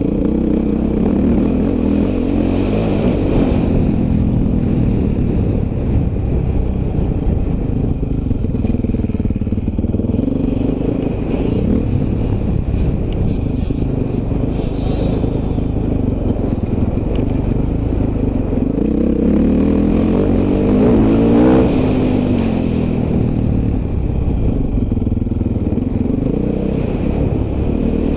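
Off-road dirt bike engine running under varying throttle, its pitch rising and falling as it revs up and backs off, loudest about two-thirds of the way through.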